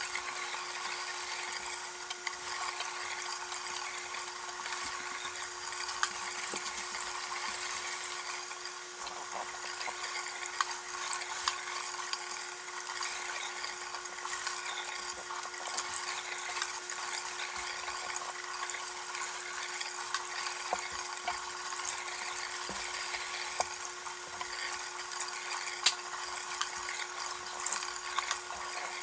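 Tap water running into a sink as hair is detangled under it: a steady hiss with a faint steady hum and scattered small clicks.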